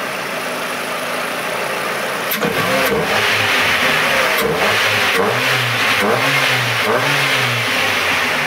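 Old Ford car engine idling, then revved in a series of short blips from about two and a half seconds in, its pitch rising and falling with each one. It is running fairly well.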